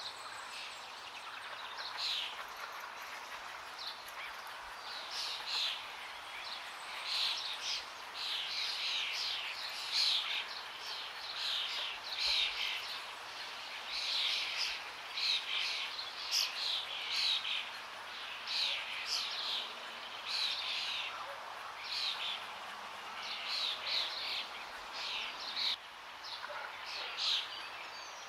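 Forest birds chirping in quick, repeated bursts over a steady rush of flowing water.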